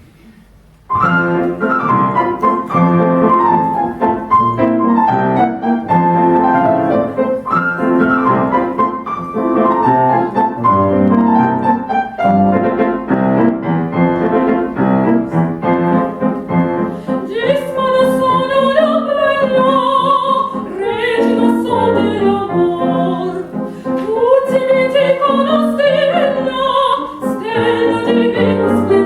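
A grand piano starts a classical song about a second in. About halfway through, a female voice enters singing in operatic style with vibrato over the piano accompaniment.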